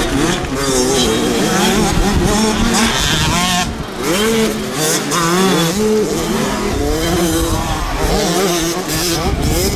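Several motocross bikes racing past, their engines revving hard, pitch climbing and dropping repeatedly as the riders open the throttle and shift through the gears.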